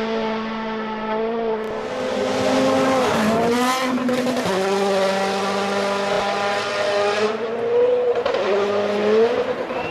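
A World Rally Car's turbocharged 1.6-litre four-cylinder engine running flat out at high revs, holding a steady high note with a quick dip and rise in pitch and a burst of noise about three and a half seconds in, and the revs climbing again near the end.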